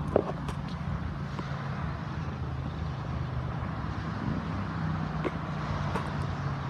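Steady low engine hum with a few light knocks and taps.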